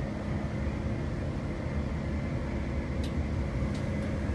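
Electric passenger train running at speed on the Paddington–Heathrow line: a steady low rumble with a constant hum and a faint high tone. A couple of light clicks come near the end.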